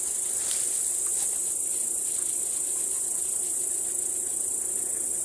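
Steady, high-pitched chirring of field insects such as crickets or grasshoppers.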